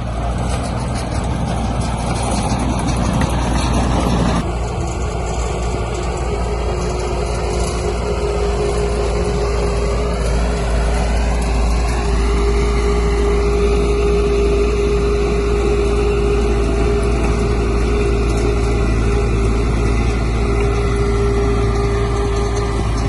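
Heavy diesel engine of earth-moving machinery running steadily, rougher and noisier for the first four seconds or so, then a steady engine hum.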